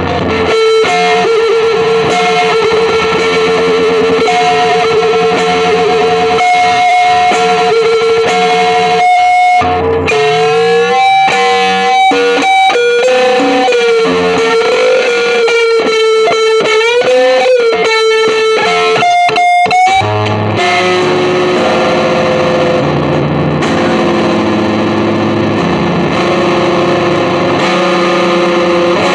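Electric guitar played through effects with some distortion, holding long sustained notes that waver and bend in pitch. About two-thirds of the way through it shifts abruptly to a lower, denser passage.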